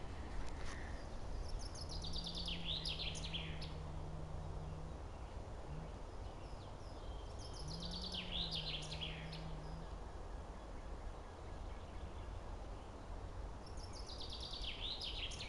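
A songbird singing three short phrases, each a quick run of notes falling in pitch and lasting about two seconds, spaced about six seconds apart, over a steady low outdoor rumble. A faint low hum comes in twice for a few seconds in the first part.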